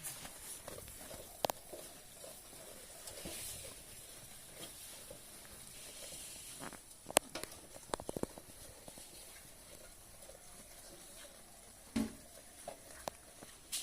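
Goat eating hand-fed grass: soft rustling and crunching of leaves, with a few sharp snaps spread through.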